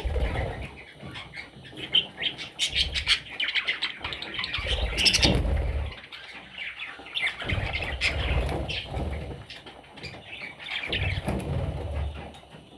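Budgerigar chicks chirping in many rapid, short, high calls, with low rumbling bursts every few seconds.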